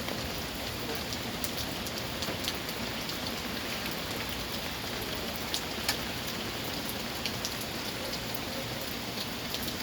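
Steady rain falling and pattering on surfaces, with scattered sharp drip ticks.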